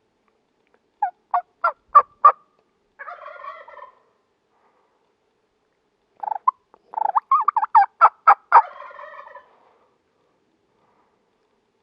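Wild turkey calls: a short run of sharp yelps followed by a rolling gobble from a tom, then a longer, faster run of yelps followed by a second gobble.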